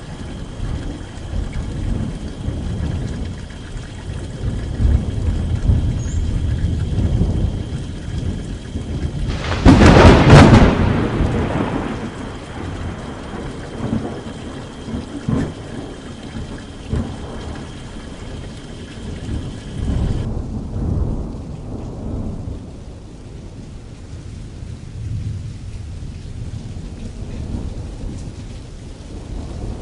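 Thunderstorm: rolling thunder rumbles continuously under the patter of rain on canvas, with one loud crack of thunder about ten seconds in. About two-thirds of the way through, the rain hiss drops away, leaving mostly the low rumbling.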